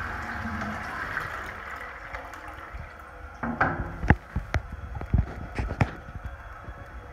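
Toilet flush tailing off into a trickle as the cistern refills. From about three seconds in come a run of sharp clicks and knocks with a short gurgle.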